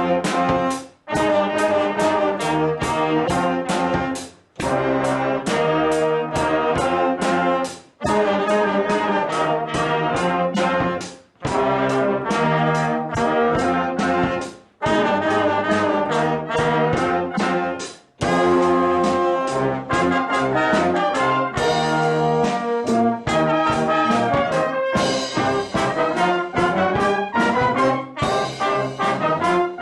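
Brass music, quick repeated notes in phrases about three and a half seconds long, each ending in a brief silence, then playing on without breaks for the last ten seconds or so.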